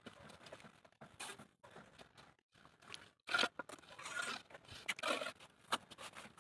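Irregular short scraping sounds and sharp clicks, the loudest scrape about three and a half seconds in.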